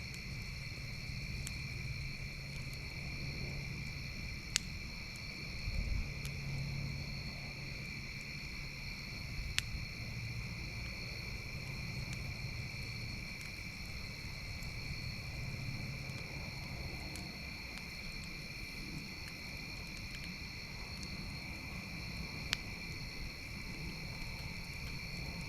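Campfire burning with a few sharp pops, over a steady chorus of insects.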